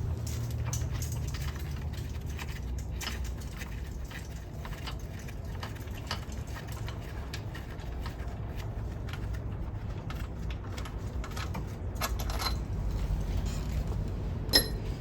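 Metal hand tools working the cylinder-head bolts of a V6 engine: irregular metallic clicks and scraping over a steady low hum, then one sharp, ringing metal clink near the end.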